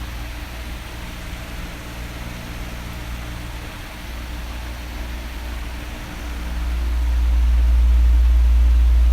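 Electric fan running: a steady airy hiss over a low hum, the low rumble growing louder from about six seconds in.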